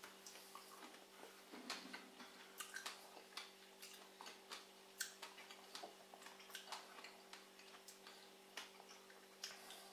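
Faint, irregular wet clicks and smacks of people chewing ripe strawberries, over a faint steady hum.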